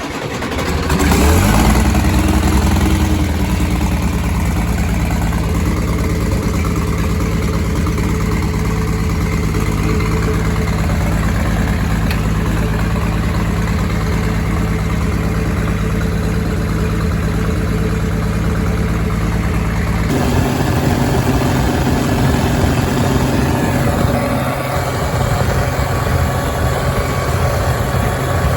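New Holland Workmaster 55 tractor's diesel engine catching right at the start, running up briefly, then settling into a steady idle. Its engine note shifts about two-thirds of the way through.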